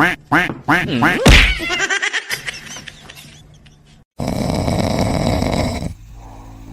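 A rapid series of short quack-like animal calls, about three a second, with a loud hit about a second in. The calls tail off, and after a cut a steady noise takes over.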